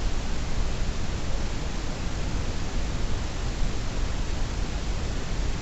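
Steady rushing noise with a strong low rumble, with no pitch and no distinct events.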